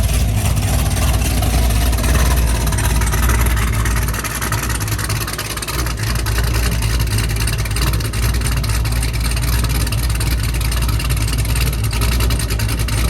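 Several car engines running with a low, steady rumble as cars drive out one after another. The rumble eases briefly about four seconds in.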